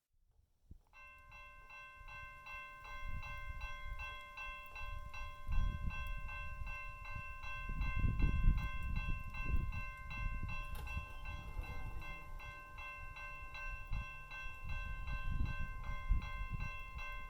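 Railway level-crossing warning bell ringing in rapid, even strokes, starting about a second in as the crossing signals activate for an approaching train. A low, uneven rumble underneath grows louder from a few seconds in.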